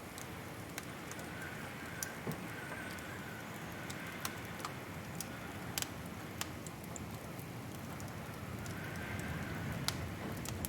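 Wood fire crackling: sharp, irregular pops and snaps over a steady low hiss of burning.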